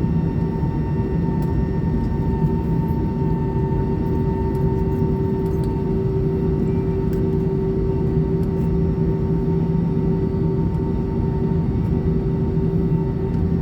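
Steady jet-airliner cabin noise inside an Airbus A320: an even drone of engines and airflow with several constant hum tones, unchanging in pitch and level.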